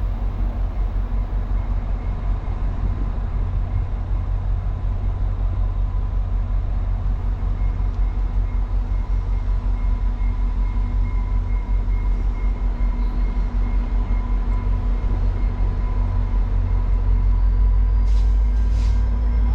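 Train running by with a steady, heavy low rumble and a faint whine, two sharp clicks near the end.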